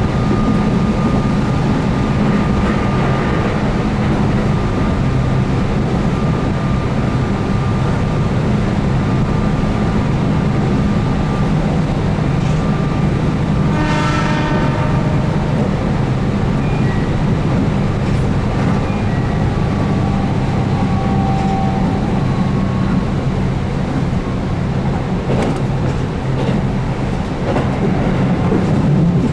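Keihan 8000 series electric train running at speed, heard on board: steady hum of its DC traction motors under field-addition excitation control, with wheel and rail noise. A short pitched tone sounds once about halfway through.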